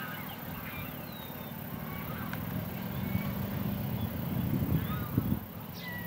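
Birds calling in short chirps and whistles over a low steady background hum.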